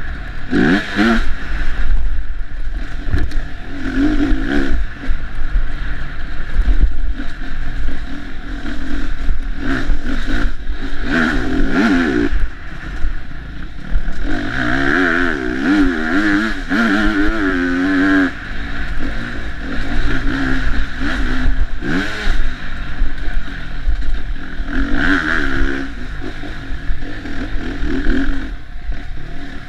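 Dirt bike engine revved hard and repeatedly, pitch climbing and dropping as the throttle is worked off-road, with a fast wobbling of revs about halfway through.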